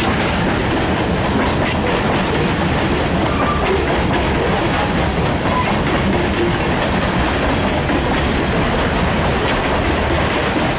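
Freight train of covered hopper cars rolling past, a steady loud noise of steel wheels running over the rails.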